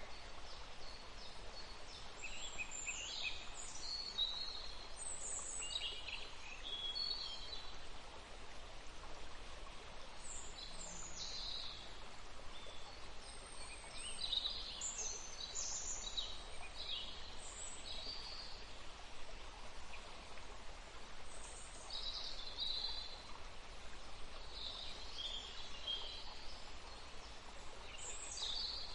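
Birds chirping on and off, many short high calls over a steady background hiss.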